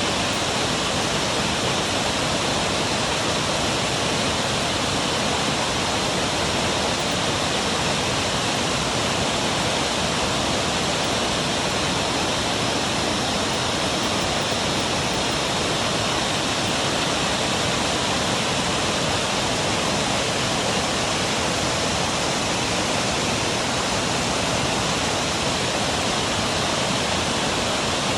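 Waterfall: steady rushing of water falling over the falls, an even roar with no breaks.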